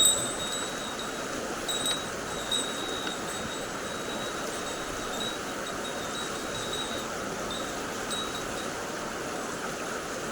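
Steady rush of flowing stream water, with a thin high tone coming and going over it.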